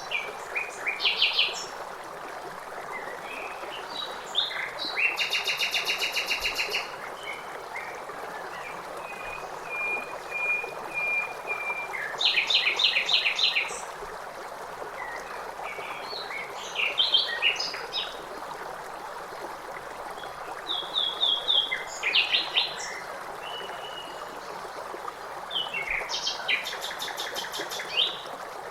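Songbirds calling and singing, with several rapid, evenly spaced trills, over a steady rush of running water.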